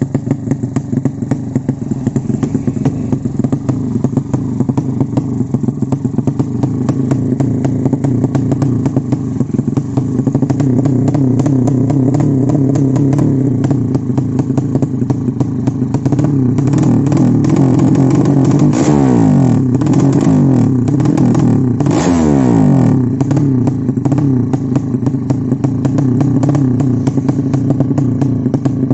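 Motorcycle engine running steadily at idle, blipped twice in quick revs about two-thirds of the way through, the pitch falling back to idle after each.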